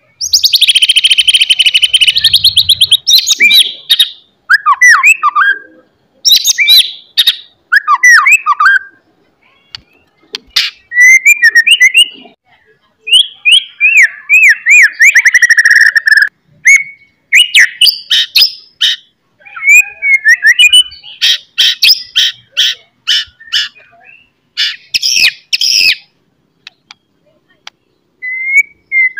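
A songbird singing loudly in a string of varied phrases with short pauses between them: a dense rapid trill, gliding whistled notes, and fast runs of sharp chattering chips. This is a 'gacor' song of the kind played to white-rumped shamas to stir them to sing and fight.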